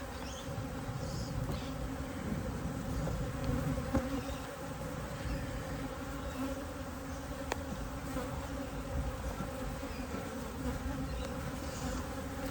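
Honeybees buzzing steadily as a colony hums around an opened top bar hive, with a couple of faint clicks partway through.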